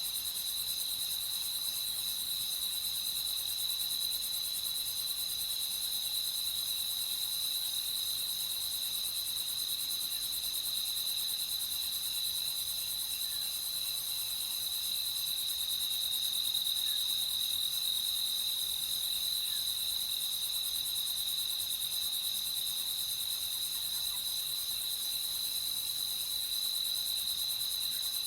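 Crickets singing in a steady, unbroken chorus: a continuous high-pitched trill, with a fainter hiss of insects higher up.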